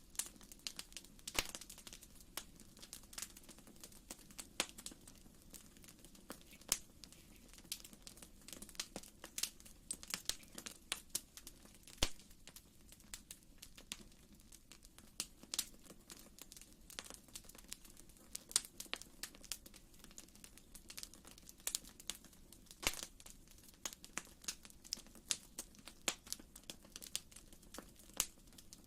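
Wood fire burning in a fireplace, crackling with irregular sharp snaps and pops over a soft, steady low rumble.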